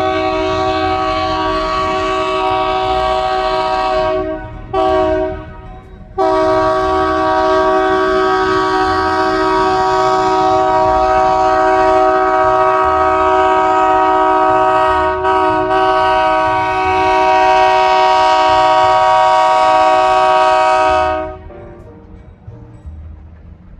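GP40 diesel locomotive's air horn sounding a steady chord: a held blast that breaks off about four seconds in, a short toot, then one long blast of about fifteen seconds that cuts off near the end.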